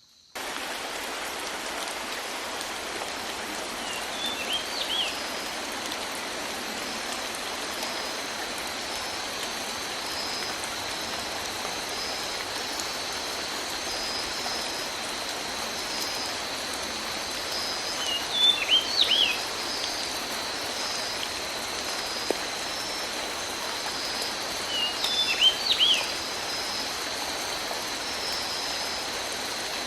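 Steady heavy tropical rain falling in a rainforest, starting suddenly just after the beginning. A bird calls briefly three times over the rain, loudest near the end.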